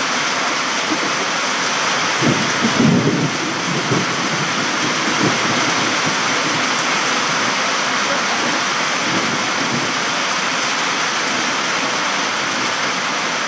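Heavy rain pouring down with a steady hiss, with a brief low rumble about two to three seconds in.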